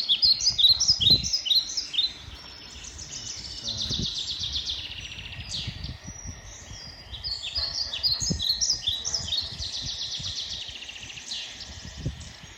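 Songbirds singing in a dense chorus of overlapping, repeated chirps and rapid trills, with a few brief low thumps.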